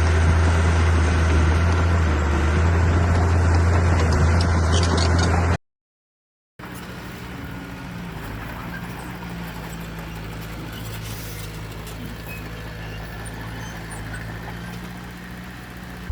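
Heavy diesel machinery engine running steadily and loud, cutting off abruptly about five and a half seconds in; after a second of silence a quieter, steady engine drone runs on.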